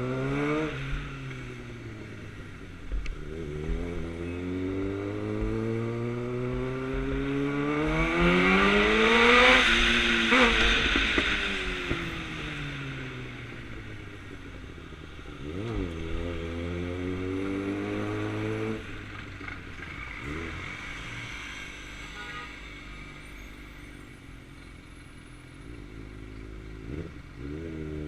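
2009 Suzuki GSX-R600's inline-four engine pulling up through the gears, its pitch climbing in steps to the loudest point about ten seconds in, then falling away as it slows. Later it runs lower and steady, with a couple of brief throttle blips.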